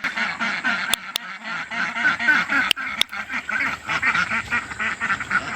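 A flock of ducks quacking and chattering: many quick calls overlapping without a break, with a few sharp clicks among them.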